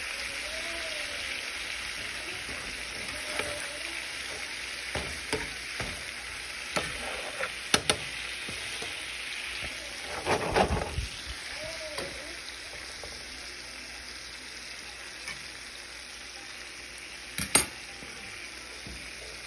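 Shrimp, lobster tails, corn and sausage sizzling in butter in a skillet, a steady frying hiss. A fork clicks against the pan now and then as the food is turned, with a short clatter about halfway through and one sharp click near the end.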